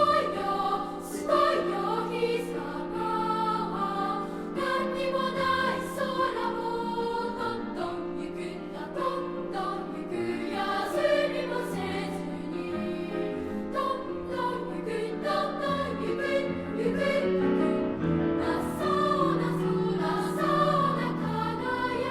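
Elementary school children's choir singing a song in three-part harmony, with sustained, overlapping vocal lines.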